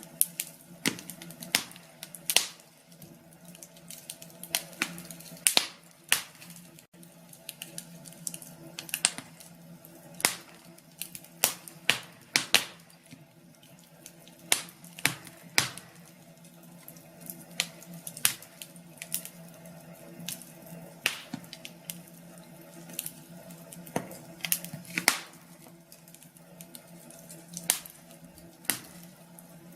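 Wood fire crackling in a fireplace: irregular sharp pops and snaps, several a second at times, over a faint low hum.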